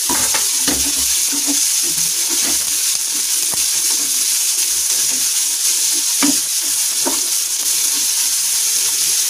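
Green peas and chopped onion sizzling in hot oil in a small non-stick frying pan, stirred with a wooden spatula that scrapes and taps against the pan now and then, one knock a little after six seconds in standing out.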